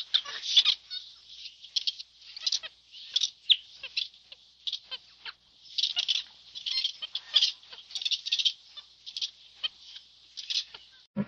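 Short, high-pitched animal chirps repeated in quick irregular clusters, like forest birds or monkey squeaks chattering.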